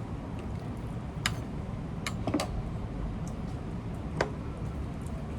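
Eating sounds at a lobster and crab meal: a few short, sharp clicks and cracks, two close together about two seconds in and another about four seconds in, over a steady low room hum.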